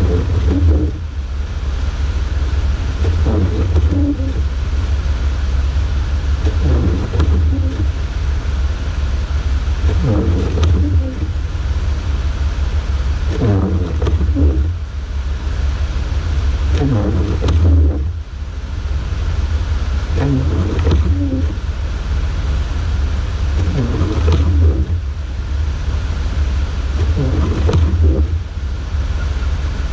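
Jeep's engine idling with a steady low rumble. A short sweeping sound comes back about every three and a half seconds, some nine times.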